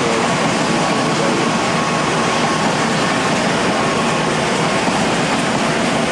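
Passenger train passing through the station at speed: a steady rush of wheel and rail noise, with a faint thin tone in the middle.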